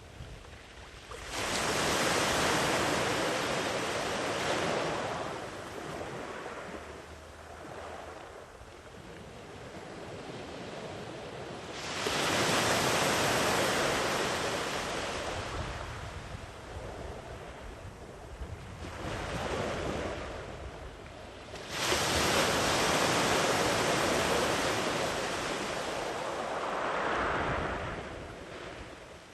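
Sea waves breaking on a sandy beach: three waves crash about ten seconds apart, each swelling suddenly and then washing out over several seconds, with a low wash of surf between them and some wind on the microphone.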